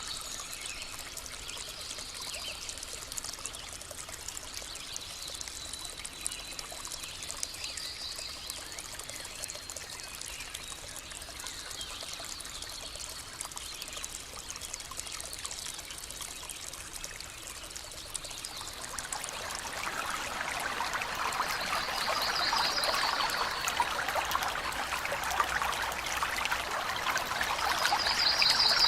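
Stream water trickling and running, growing louder about two-thirds of the way through, with a few short, high bird trills over it.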